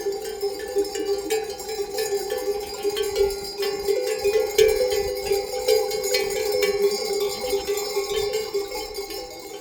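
Many livestock bells on a moving flock, clanking and jangling together continuously, their overlapping rings blending into a steady chorus.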